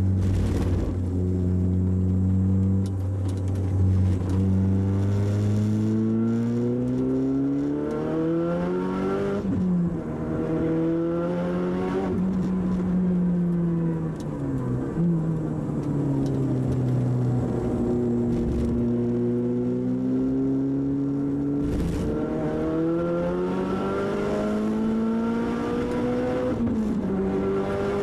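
Engine of a tuned, GT30R-turbocharged Audi TT Quattro heard from inside the cabin while lapping a track. It holds a steady note at first, then climbs in pitch again and again under acceleration, dropping sharply at gear changes.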